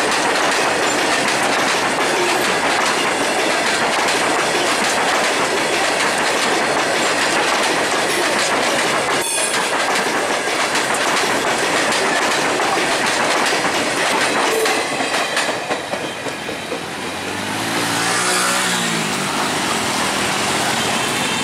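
Indian Railways BC covered goods wagons of a freight train rolling past at close range: steady wheel rumble and clickety-clack over the rail joints, with one sharp clank about nine seconds in. Near the end the train noise drops away and a small road-vehicle engine revs briefly.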